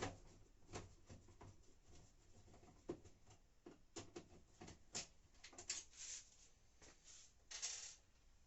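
Faint, scattered small clicks and scrapes of a Phillips screwdriver turning out a self-tapping screw from a washing machine's detergent-dispenser housing, with a brief rustle near the end.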